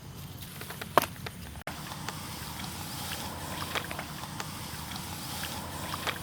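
Water sloshing and splashing, with scattered small knocks and one sharp knock about a second in.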